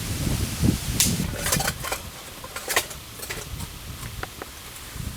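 Wood campfire crackling: scattered sharp pops and snaps. A low rumble fills the first two seconds, then fades.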